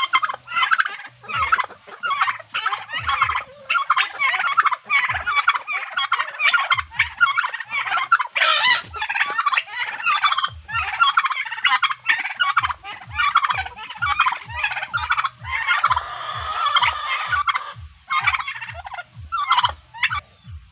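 A rapid, unbroken run of high animal calls, several a second, over a low thump about twice a second.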